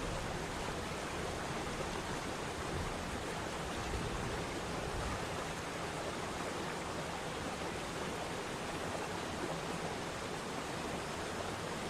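Waterfall: steady rushing and splashing of falling water, an unbroken even roar with no pauses.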